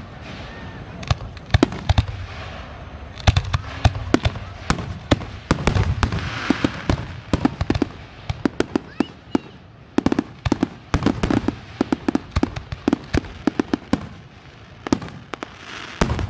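Aerial fireworks show: many sharp bangs and crackles, some in quick rattling clusters, over low booming and a steady hiss, with a few faint whistles.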